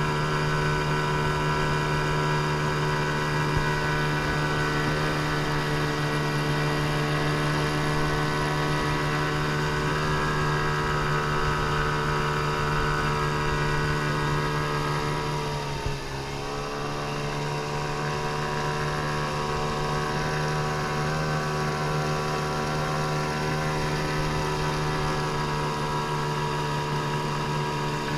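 A 15 hp outboard motor running steadily under way. A little past halfway its pitch and level drop briefly as the throttle eases, then come back up to the same steady speed.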